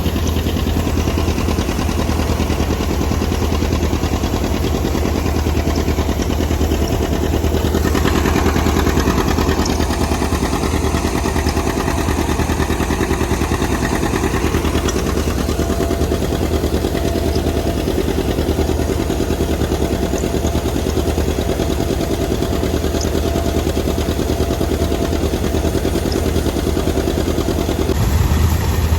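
Tractor engine running steadily at an even speed, a continuous low, pulsing engine note.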